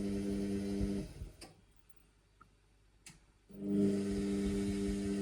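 Indesit washing machine humming steadily. About a second in the hum cuts out, leaving near silence with two faint clicks, and it starts again a couple of seconds later.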